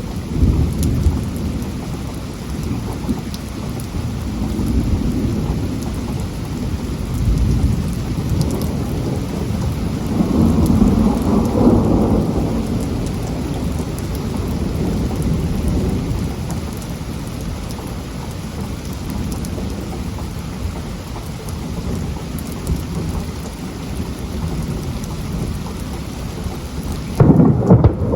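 Heavy rain falling steadily, with rolling thunder rumbling low underneath; the rumble swells to its loudest near the middle and grows loud again near the end.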